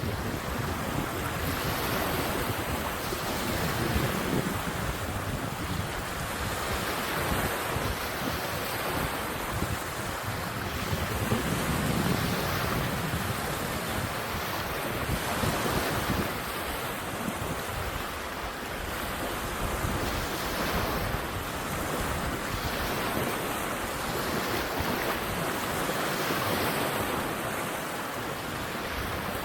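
Strong wind blowing across the microphone in swelling and fading gusts, with waves washing on the river.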